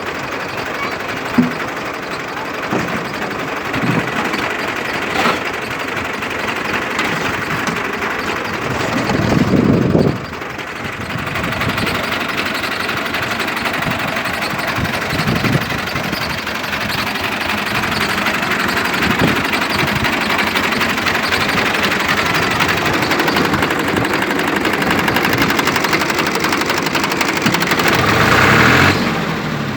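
Fiat 480 tractor's diesel engine running steadily. It grows louder about nine seconds in, then drops suddenly about a second later.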